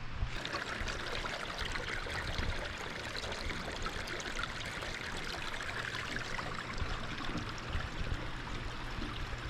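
Mountain trout stream flowing, a steady rushing of water that sets in suddenly just after the start.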